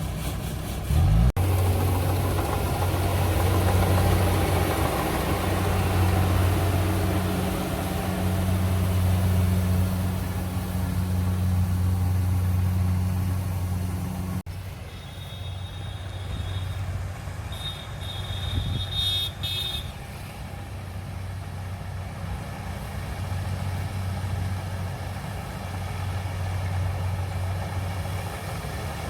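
Diesel engine of farm harvesting machinery running steadily with a low, even hum. About halfway through, a high beeping tone sounds for a few seconds.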